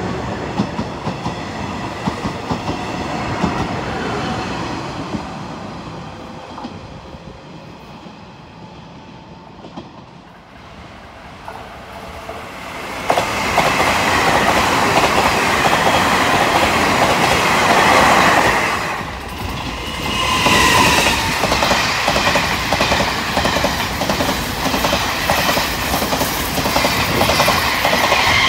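Taiwan Railways electric trains in succession: a commuter EMU pulling away and fading out, then a Puyuma express rushing past loudly from about halfway, and near the end push-pull express coaches going by with rapid clicking of wheels over rail joints.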